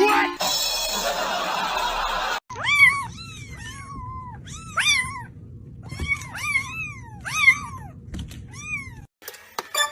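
A cat meowing over and over: about a dozen short, high-pitched meows that each rise and fall. They follow a couple of seconds of steady hissing noise, and a few sharp clicks come near the end.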